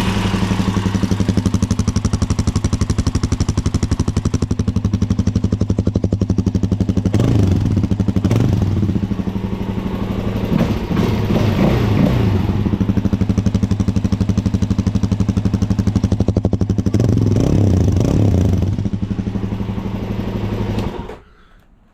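Suzuki DRZ400's single-cylinder four-stroke engine running on a cold start through its stock exhaust. It idles steadily with a few short throttle blips, then shuts off about 21 seconds in.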